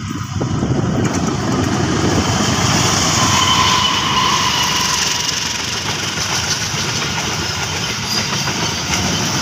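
A CC 203 (GE U20C) diesel-electric locomotive hauling a passenger train passes close by at speed. Its engine rumble, loudest a few seconds in, gives way to the clatter of the coaches rolling by on the rails.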